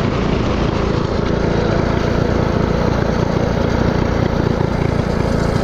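Mini-bike's Predator 224cc single-cylinder four-stroke engine running steadily under way.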